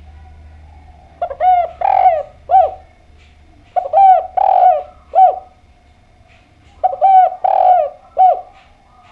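Spotted dove (derkuku/tekukur) cooing: three phrases of several short, arched coos, each phrase with one longer note, repeated about every three seconds. It is a male singing freely (gacor).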